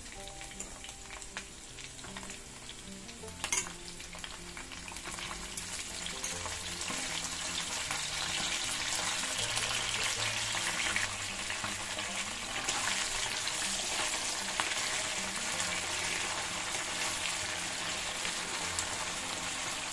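Potato and brinjal (eggplant) pieces sizzling in hot oil in a frying pan over a high gas flame, stirred now and then with a spatula. There is a sharp knock about three and a half seconds in, and the sizzle grows louder about eight seconds in.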